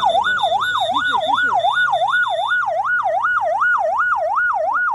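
Electronic yelp siren wailing rapidly up and down, about three sweeps a second, loud and steady throughout.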